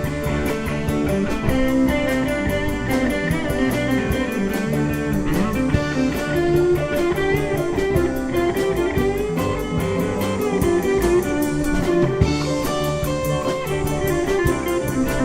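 Live rock band playing an instrumental passage: a plucked-string lead over bass, keyboards and a drum kit keeping a steady cymbal beat.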